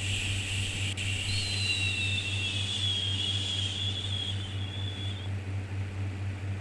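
A long, drawn-out 'shhh' shushing sound with a slightly whistling edge, which stops about five seconds in, over a steady low hum.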